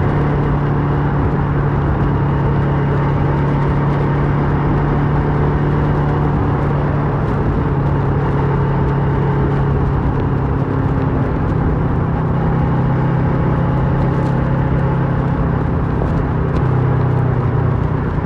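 Kawasaki Versys 650 parallel-twin engine running through a MIVV slip-on exhaust while riding at a steady pace. The engine note holds steady and dips slightly a few seconds before the end.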